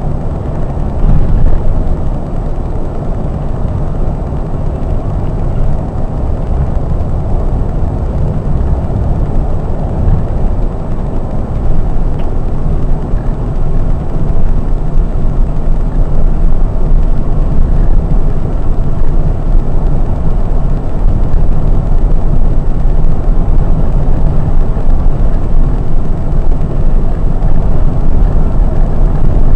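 Scania K420 double-decker coach under way on the highway: a steady low engine drone mixed with road noise, growing a little louder about halfway through.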